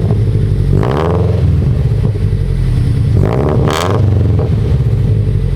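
Car engine idling cold and blipped twice by the throttle, about a second in and again after about three seconds, the pitch rising and falling back to idle each time.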